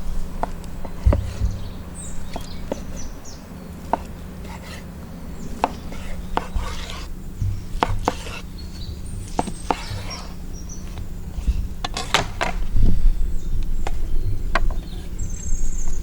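Irregular knocks and clicks of food preparation: a knife and utensils working on a wooden board. Faint bird chirps come now and then.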